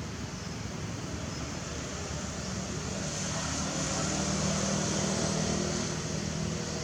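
A motor vehicle passing, its engine hum and road noise swelling from about three seconds in and easing near the end.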